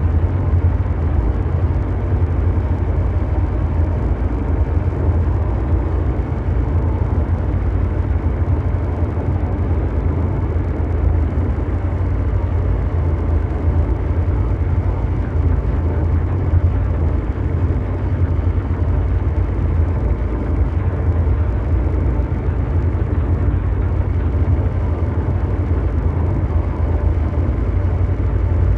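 Ambient mechanical drone noise: a steady, deep engine-like rumble layered with brown noise, holding unchanged throughout.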